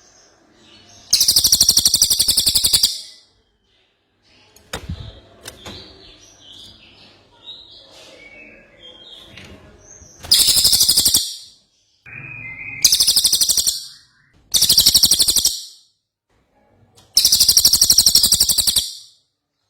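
Cililin bird singing: five loud, rapid rattling trills of a second or two each, with softer twittering notes in between.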